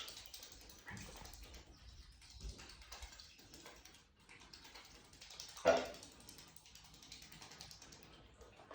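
Geese moving about and pecking in a stable, making faint scattered clicks and rustles, with one short goose call about six seconds in.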